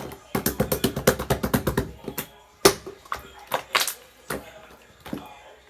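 Slime being squeezed and worked by hand, giving a rapid run of sharp popping clicks, about eight a second for over a second, then a few separate louder pops.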